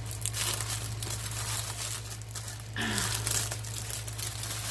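Plastic packaging crinkling and tearing as it is opened, with irregular crackles throughout.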